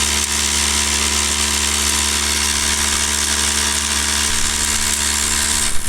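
Electric non-air drywasher (Tornado F2) running steadily: its vibrator motor hums while a dense hiss of dry dirt runs over the shaking riffle tray. The sound cuts off abruptly at the very end.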